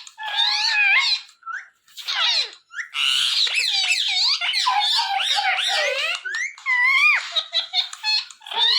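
Ringneck parrot chattering in a rapid stream of high, squeaky, warbling calls and mimicked talk, pausing briefly twice.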